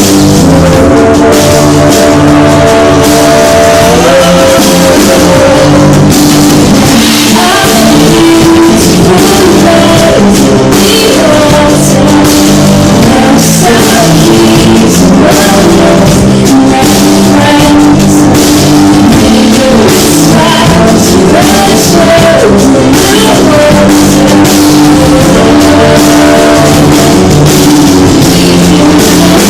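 A rock band playing live: drum kit, guitar and singing, loud and continuous. It is recorded close to full level on a phone, which gives a harsh, overloaded mix.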